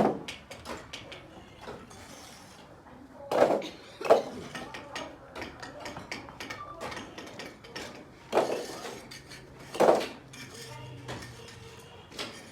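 Kitchenware clattering: a run of clinks and knocks, with about five louder knocks spread through.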